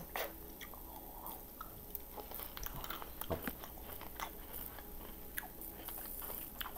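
Close-up chewing of milk chocolate M&M's: faint, scattered small crunches and clicks as the candy shells are bitten and chewed, one a little louder about three seconds in.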